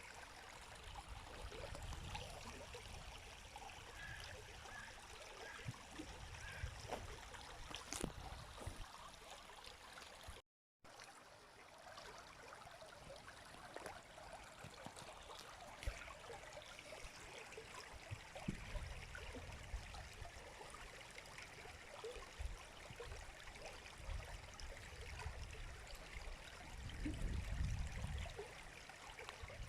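A river flowing: a steady rush of water with many small trickling flicks throughout. The sound cuts out completely for a split second about ten seconds in.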